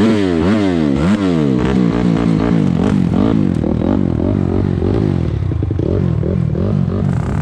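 Four-stroke dirt bike engine just started, the throttle blipped up and down about twice a second for the first second or so, then held running steadily with small blips to keep it from stalling.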